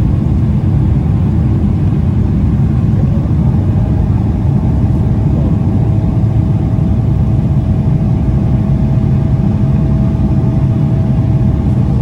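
Airliner cabin during takeoff: a loud, steady low rumble of jet engines and rushing air, with a thin steady whine coming in about four seconds in.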